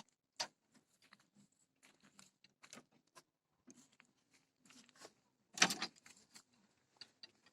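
Scattered light clicks and knocks of something being handled, with a louder clatter about five and a half seconds in.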